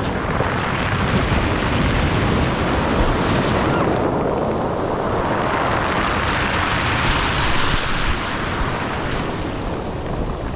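Rough sea surf: waves rushing in and washing back along the shore, swelling twice, with some wind on the microphone.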